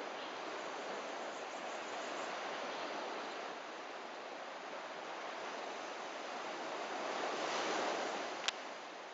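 Steady rush of breaking surf that swells to its loudest near the end, with a single sharp click just before the end.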